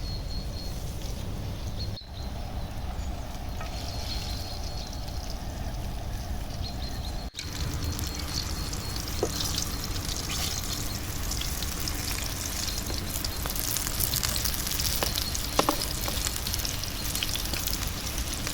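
Food sizzling over a campfire, with crackling and a few sharp snaps; the sound changes abruptly about two seconds in and again about seven seconds in.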